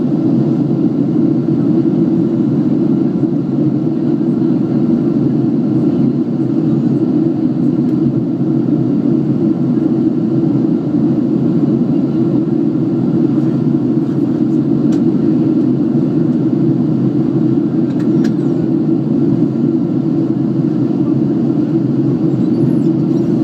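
Steady cabin noise inside a passenger airliner in flight: the engines and the air rushing past the fuselage make a deep, even rush that does not change.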